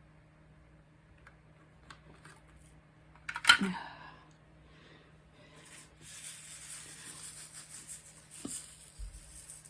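Small objects being handled: a few light ticks, one sharp clack with a short ring about three and a half seconds in, then several seconds of crackly rustling.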